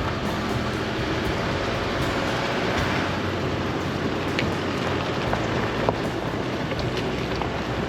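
Chevrolet Colorado ZR2 Bison pickup driving along a rough backcountry trail: steady engine and tyre rumble with a few short sharp ticks.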